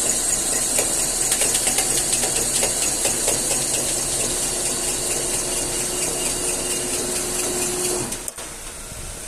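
Electro-hydraulic car lift running with a steady hum and hiss while it raises the car, then stopping abruptly about eight seconds in. The idling engine stays beneath it.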